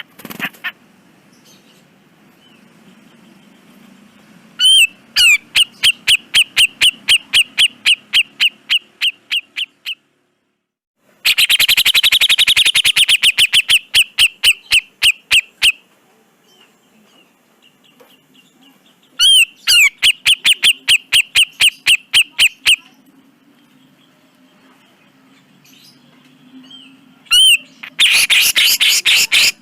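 Cucak jenggot (grey-cheeked bulbul) singing its fast rattling song. It sings four runs of rapidly repeated harsh notes, each lasting a few seconds, with short pauses between them.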